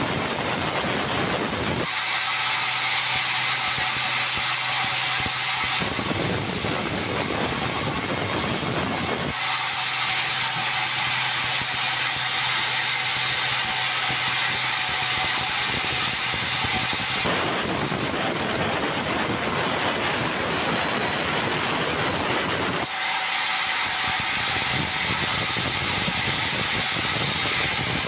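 Sawmill band saw running steadily, a loud continuous hissing noise. Twice, for several seconds at a time, the deep part of the sound drops out abruptly.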